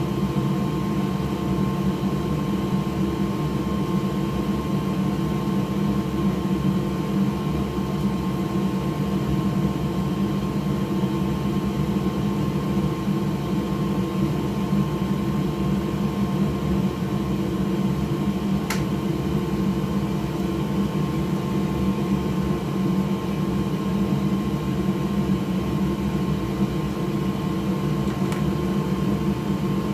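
Steady whir of an electric fan running at constant speed, with a constant hum under it; a single faint click about nineteen seconds in.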